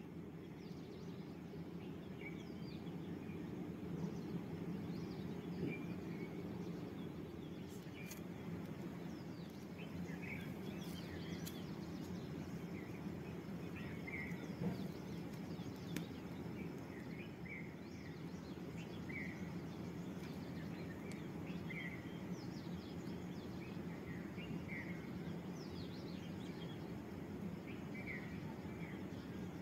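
Small birds chirping now and then, short high chirps every second or two, over a steady low background rumble.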